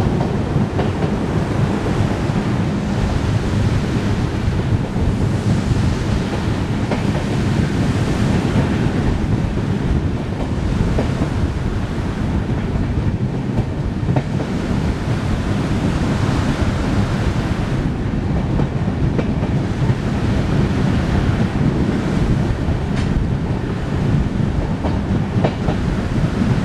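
Passenger train running at speed over a bridge, heard from an open coach door: a steady rumble of wheels on the rails with a few faint clicks from the track.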